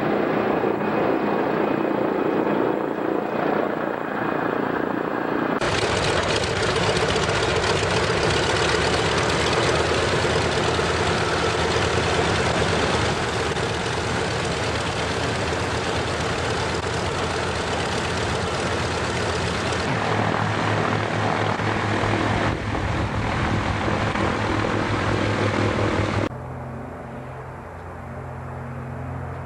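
Twin radial piston engines of a PBY-5A Canso water bomber running loudly, a dense propeller-and-engine noise. The sound changes abruptly at several cuts and drops noticeably quieter near the end.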